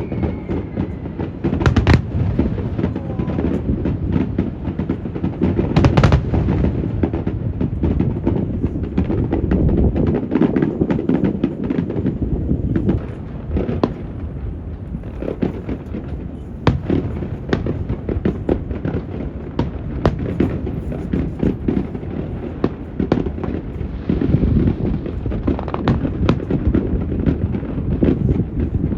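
Aerial fireworks bursting and crackling in quick succession, with the loudest bangs about 2 and 6 seconds in. Wind rumbles on the microphone underneath throughout.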